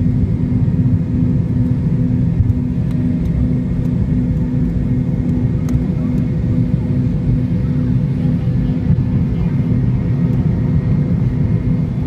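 McDonnell Douglas MD-82's Pratt & Whitney JT8D engines running at takeoff power: a loud, steady rumble with a steady whine over it.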